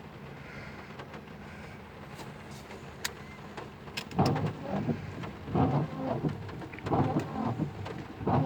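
Rain falling on a car, heard from inside the cabin, with the windshield wipers sweeping back and forth; from about four seconds in, the wiper strokes come in a steady rhythm about every second and a half.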